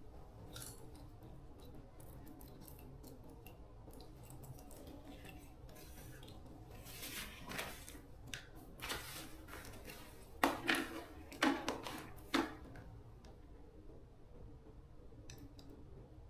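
Light metallic clicks and scrapes of hand tools working on small metal parts, with a few sharper knocks about ten to twelve seconds in.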